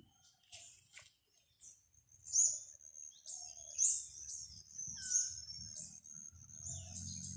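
A songbird calling: a series of short, high chirps repeating about every second and a half. A low hum comes in near the end.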